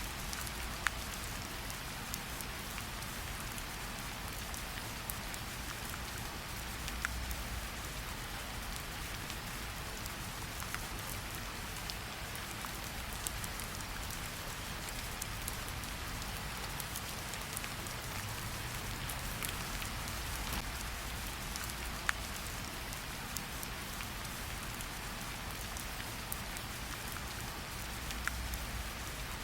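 Steady rain: an even hiss with many small drop taps scattered through it and a few sharper ones.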